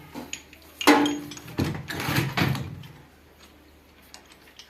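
Knocks and clunks of tools and parts being handled during work on a tractor: a sharp hit about a second in and a few more between one and a half and two and a half seconds, then quieter.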